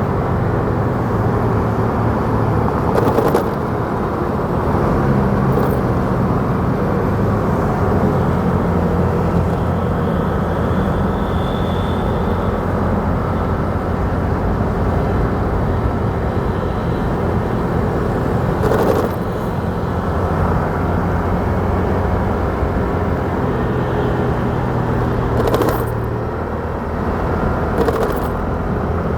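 Motorcycle riding in traffic: the engine runs steadily under road and wind noise, with four short knocks spread through.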